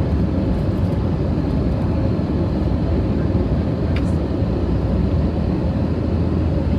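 Steady engine and airflow rumble heard inside a passenger airliner's cabin, with a single faint click about four seconds in.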